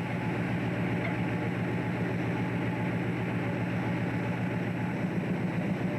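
Fishing boat's engine running steadily, an even low drone with no change.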